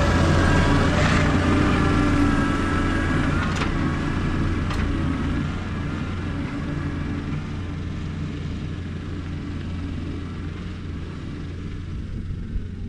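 Diesel engine of a John Deere 333E skid steer running steadily while it works dirt, gradually getting quieter, with a couple of light clicks a few seconds in.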